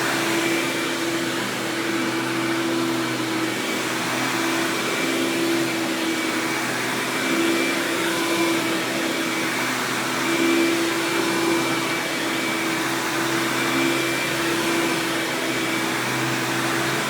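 Hoover Power Drive Supreme upright vacuum (U6318-930), fitted with a Quadraflex brush roll, running steadily: a continuous motor hum with a faint high whine, smooth and even throughout.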